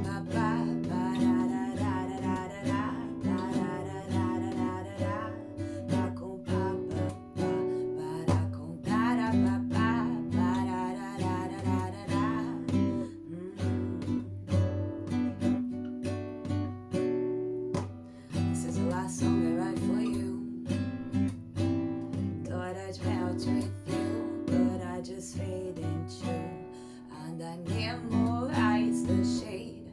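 Acoustic guitar played with picked and strummed chords, with a singing voice coming in over it in phrases.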